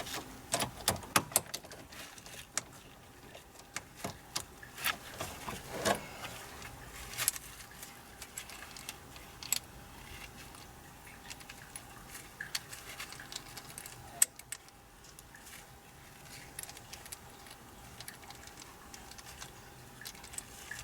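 Scattered metallic clicks and small rattles of a key and a replacement ignition lock cylinder being jiggled and pushed into a Ford Escape's steering-column housing. The cylinder will not seat because it is not lined up with its locating tabs.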